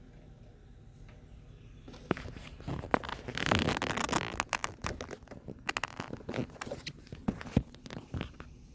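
Rustling and scraping with many scattered sharp clicks, the handling noise of a camera being moved around close up; it starts about two seconds in and is busiest around the middle.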